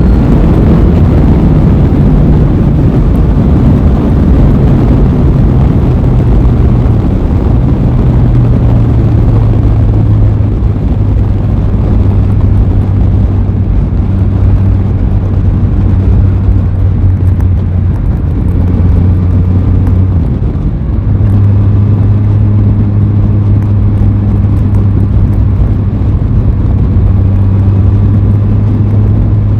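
Aprilia Tuono 660's parallel-twin engine running under way. Its note steps down in pitch over the first ten seconds, then holds nearly steady at cruising speed, with a dense rush of wind and road noise beneath it.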